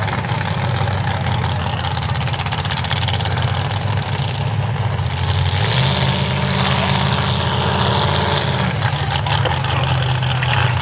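Big mega truck engine running loud and steady in the mud pit. Its pitch steps up about halfway through as it is revved, then drops back near the end.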